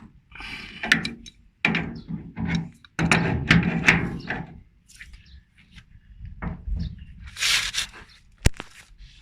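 Two wrenches tightening the flare nut on the thick suction pipe at an air-conditioner service valve: irregular metal knocks, clinks and scraping as the wrenches are set on and turned, with a sharp click near the end.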